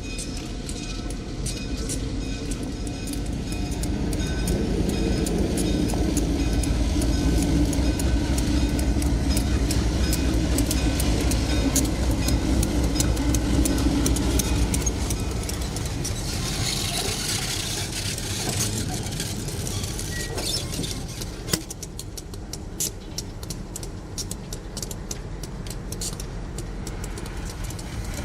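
Diesel freight train passing: the locomotive rumble swells and then fades, with wheels clicking over rail joints throughout.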